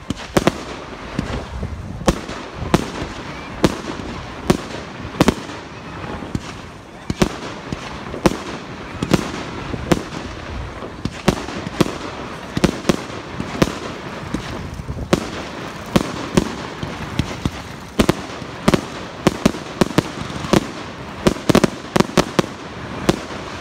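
Fireworks display: a string of sharp bangs from bursting shells, irregular at about one or two a second, coming thicker and faster in the last few seconds.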